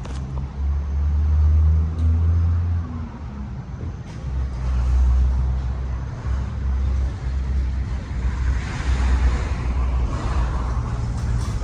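A motor vehicle's engine running, a low rumble that swells and fades several times, with a rushing wash of noise a few seconds before the end.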